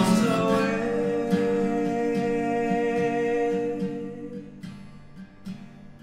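Acoustic guitar strumming behind a long held sung note that fades out about four and a half seconds in, leaving soft, spaced-out guitar plucks.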